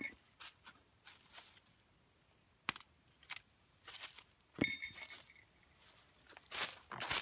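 Handling noises: scattered crunches, snaps and rustles, with one sharp metallic clink that rings briefly about four and a half seconds in.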